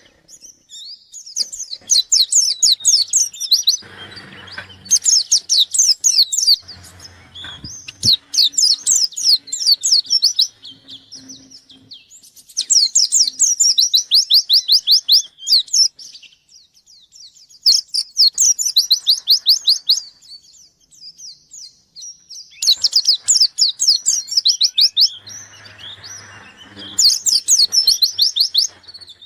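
A white-eye (pleci) singing at full volume in repeated bursts of rapid, high twittering, each burst one to a few seconds long with short pauses between. Faint low thuds come twice.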